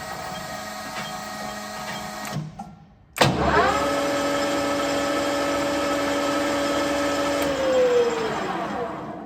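LeBlond Regal 15 lathe running with a steady whine and stopping. About three seconds in it starts again, its whine rising quickly as the spindle gets up to speed, holds steady, then falls in pitch as it winds down after being switched off near the end.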